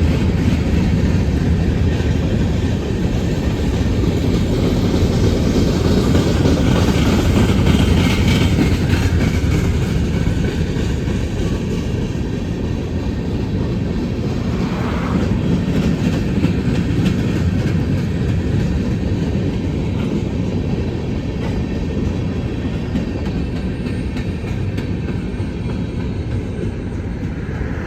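Freight train cars rolling past on the rails, a steady loud rumble with clickety-clack from the wheels over the rail joints. A brief wheel squeal cuts in about halfway.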